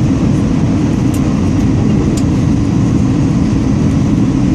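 Steady, loud low rumble of an Airbus A320's engines and airflow, heard inside the passenger cabin, with a couple of faint ticks.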